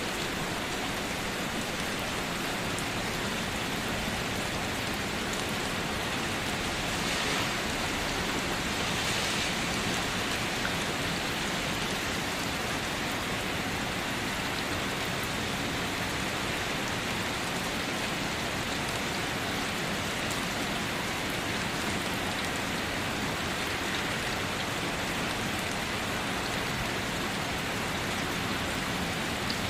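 Steady rain falling and pattering on surfaces, an even hiss with small drop ticks and a slight swell a few seconds in.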